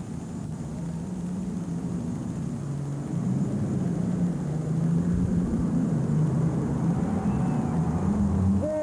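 Super stock pulling tractor's turbocharged diesel engine running hard under load, growing louder. Right at the end its pitch drops steeply as the throttle comes off.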